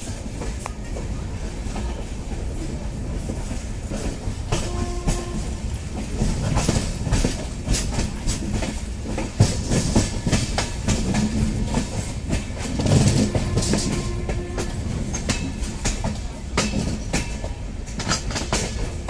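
Sapt Kranti Superfast Express running at speed, heard from aboard: a steady rumble with its wheels clacking over rail joints.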